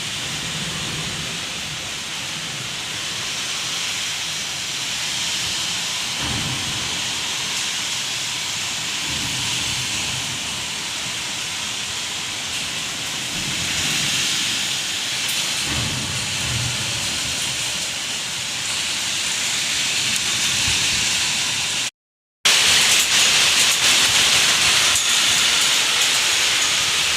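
Steady rain, a continuous hiss, with a couple of low rumbles. It breaks off for a moment about three-quarters of the way through and comes back louder.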